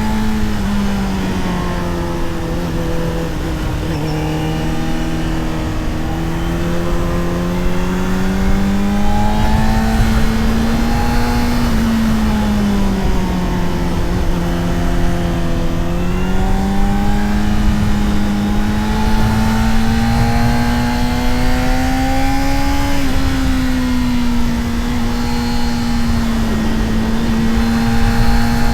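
Honda CBR600RR's inline-four engine pulling under way. Its pitch falls for the first few seconds, climbs slowly, sags again about twelve seconds in, then climbs and holds fairly steady near the end. Wind rushes over the microphone throughout.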